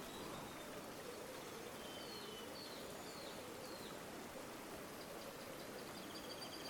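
River water running steadily, with a few short, high bird chirps about two seconds in and a rapid high trill near the end.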